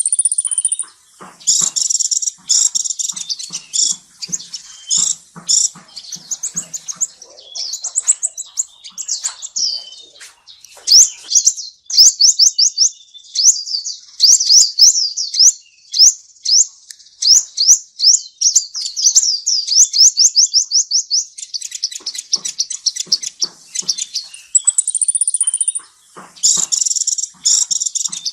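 Small birds chirping in a high, busy chatter. Through the middle there is a long run of fast repeated sweeping notes, several a second.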